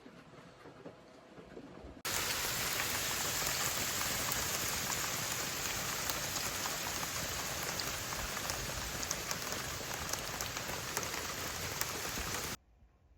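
Steady rain falling on a surface, a dense hiss with scattered drop ticks. It comes in suddenly about two seconds in and cuts off abruptly near the end.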